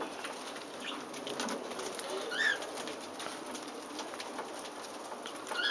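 Cockatiels feeding, with faint clicking throughout and two short chirps, one about halfway through and one at the very end.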